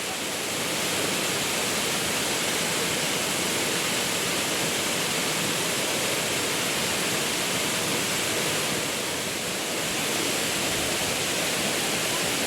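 Steady rush of water cascading down a stream's waterfall, an even hiss with no breaks.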